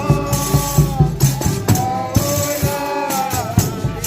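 Folia de Reis ensemble performing: voices sing long held notes in layered harmony over a steady beat of tambourine jingles and drum strikes.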